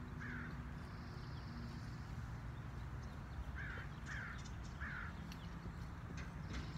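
A bird calling four times in short, falling calls, once near the start and three more in quick succession a little past halfway, over a steady low background rumble.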